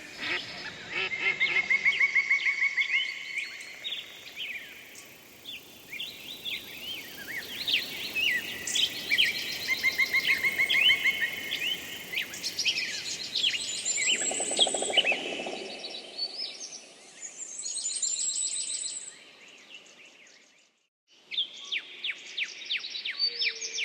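Several songbirds singing together: rapid trills, quick chirps and high rising whistles overlapping. A little before the end it breaks off briefly into near silence, then more chirping starts.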